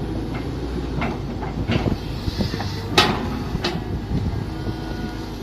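Mini excavator engine running steadily while digging, with several sharp knocks and clanks from the working machine, the loudest about three seconds in.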